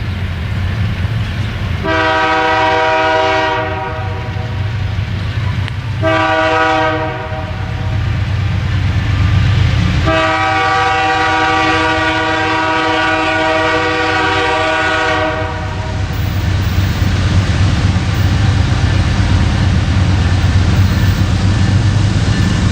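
Locomotive air horn on a Canadian Pacific train sounding a chord in three blasts, the last held for about six seconds, over the steady low rumble of the train moving along the track.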